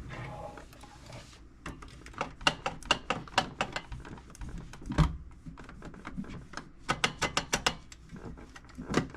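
A short hiss of aerosol cleaning wax being sprayed, lasting about a second and a half, then a long run of quick clicks and taps as the metal tool box is handled and wiped down with a cloth.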